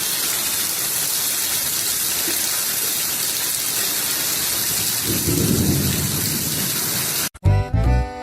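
Steady heavy rain, with a low roll of thunder swelling about five seconds in.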